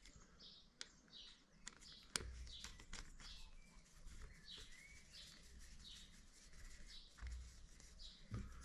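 Faint birds chirping in short repeated calls, with a few light clicks in the first couple of seconds.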